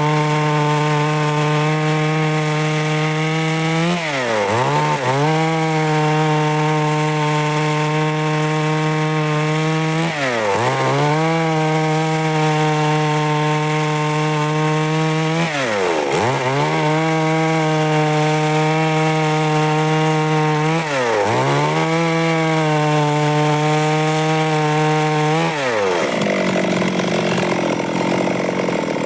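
Stihl MS 382 two-stroke chainsaw running at high revs while cutting through wood. Its pitch drops briefly and recovers about every five to six seconds, and near the end the engine note turns rougher and noisier.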